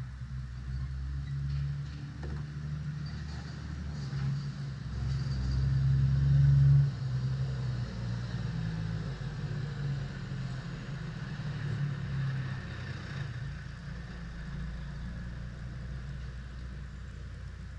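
A vehicle engine running with a low rumble, building to its loudest about six to seven seconds in, then dropping back suddenly and running on more evenly.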